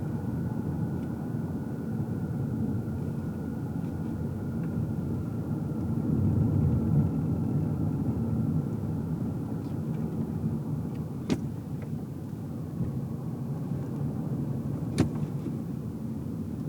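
Car driving, heard from inside the cabin: steady low road and tyre rumble with a faint high whine that slowly falls in pitch. The rumble swells for a couple of seconds near the middle, and there are two sharp clicks later on.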